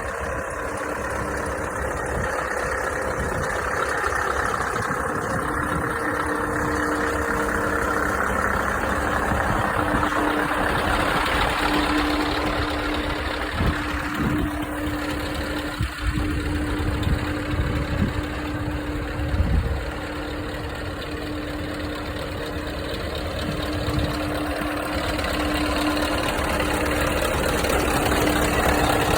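Scania R500 truck's V8 diesel engine running steadily, likely at idle, with a steady tone over the engine noise and a few brief louder moments in the middle.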